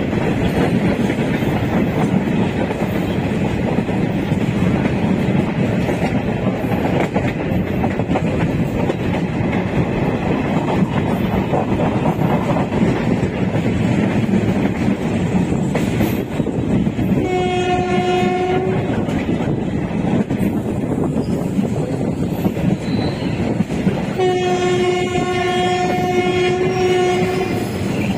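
Bagh Express passenger train running along the track, a steady rumble of wheels on rails heard from aboard the train. A train horn sounds twice: a short blast about two-thirds of the way through and a longer one of about three seconds near the end.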